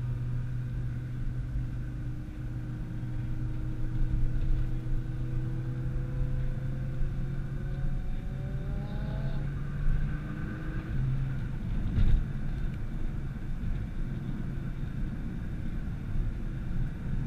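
Nissan GT-R engine running on the move over road and tyre noise. Its pitch climbs steadily for several seconds as the car accelerates, then falls away about ten seconds in. A single brief knock comes a couple of seconds later.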